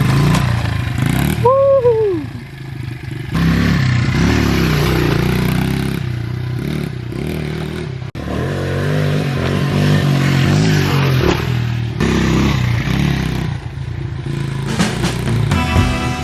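Small Honda pit bike engine being ridden, revving up and down with its pitch rising and falling, and a rider's shout of "woo" about two seconds in.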